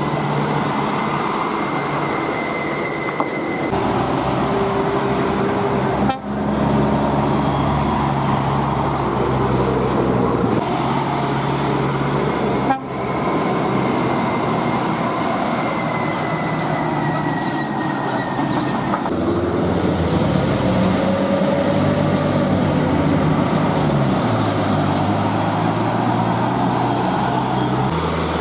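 Diesel engines of heavy trucks running as they pass, with long horn toots over the engine sound. The sound breaks off and changes abruptly a few times.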